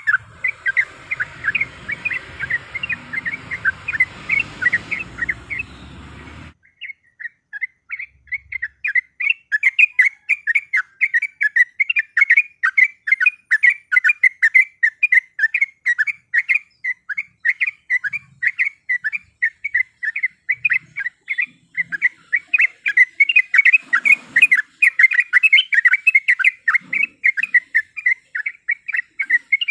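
Yellow-vented bulbul (trucuk) singing a long, fast run of short, repeated chirping notes. A low background noise under the song cuts off suddenly about six seconds in.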